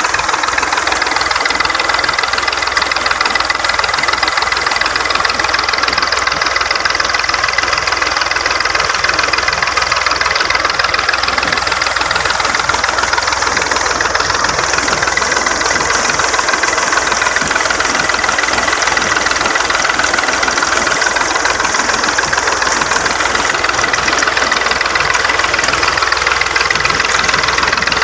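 Tractor engine running steadily with a fast, even beat, and a thin high whine over it.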